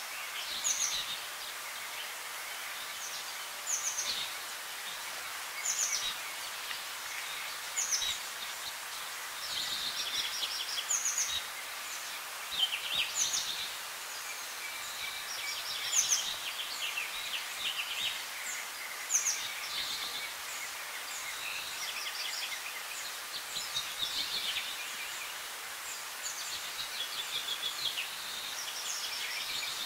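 Birds chirping: short, high calls and quick trills every couple of seconds over a steady background hiss.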